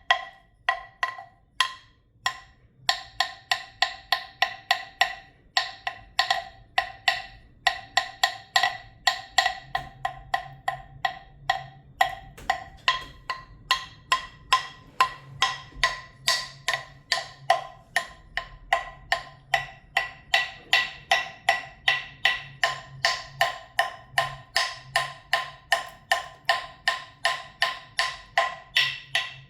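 Steady, rapid tapping on a hollow-sounding percussion object, about three to four strikes a second, each strike ringing briefly at the same few pitches.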